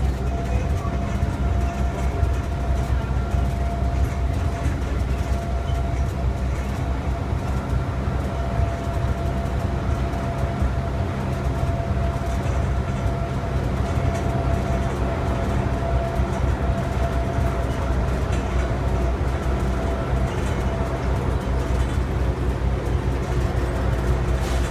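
Airport shuttle tram in motion, heard from inside the car: a steady low rumble with a constant whine from the drive.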